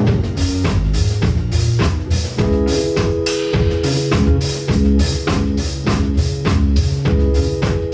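Live band music with no vocals: a drum kit keeping a steady beat of about four hits a second over bass notes and held keyboard chords. The keys and drums carry the song on their own.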